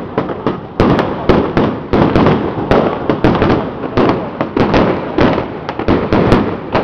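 Strings of firecrackers going off in a dense, unbroken crackle of bangs, many a second at irregular intervals.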